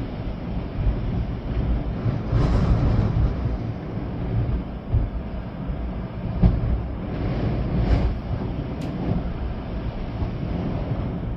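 Storm wind gusting with rain, the wind buffeting the microphone in a heavy, uneven rumble that swells and eases. A few brief sharper sounds cut through the rumble.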